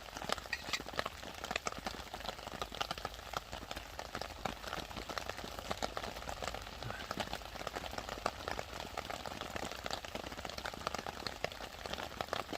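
Burger patties sizzling in a small frying pan over a wood-burning stove: a steady, dense crackle of quick pops. Rain pattering mixes in.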